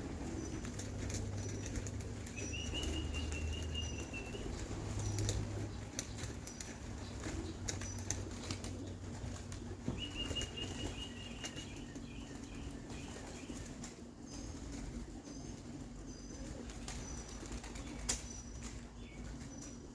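Pigeons' wings flapping and clapping as the young birds fly about and land. A small bird's trilling call sounds twice, once a couple of seconds in and again about halfway through.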